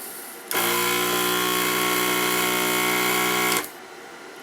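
Electric desoldering gun's vacuum pump running in one steady burst of about three seconds, starting half a second in and cutting off suddenly, as it sucks molten solder out of a through-hole pad.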